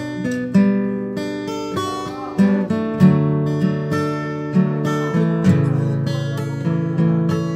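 Acoustic guitar strumming chords, each strum ringing out before the next, in a steady rhythm.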